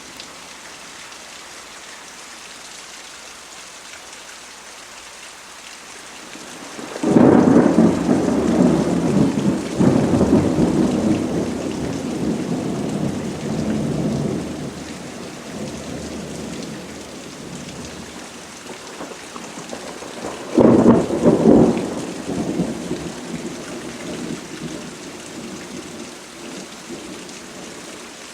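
Steady rain with two peals of thunder: the first breaks about a quarter of the way in and rolls on for several seconds, the second cracks about two-thirds in and dies away more quickly.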